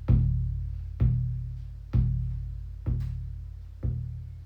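Shamanic hand drum struck in a slow, steady beat, about one stroke a second, each stroke a deep boom that rings out slowly. The strokes grow a little softer toward the end.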